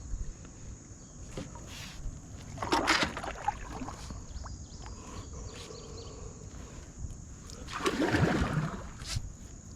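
Kayak paddle strokes in river water: two splashy strokes about five seconds apart, over a low steady wash of water.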